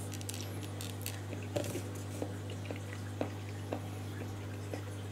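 A person chewing a mouthful of raw yellowtail sashimi: soft wet mouth clicks at irregular intervals, over a steady low hum.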